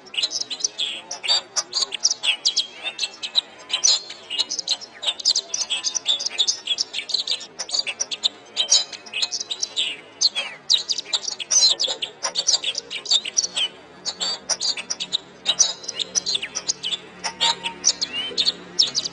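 Domestic canary song: a continuous stream of rapid high chirps, trills and quick rising and falling whistles with barely a pause.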